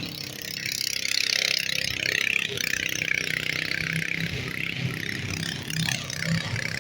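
Small gasoline engine of a garden tractor running.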